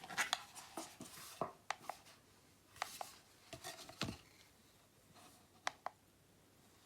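Scattered light clicks, taps and short rustles, as of small objects being handled, busiest in the first half and sparser after about four seconds.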